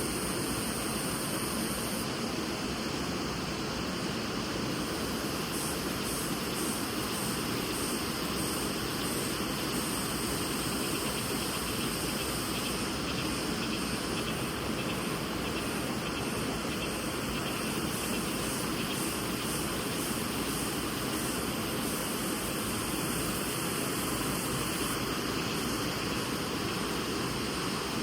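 Mountain river rushing over rocks: a steady, unbroken roar of water.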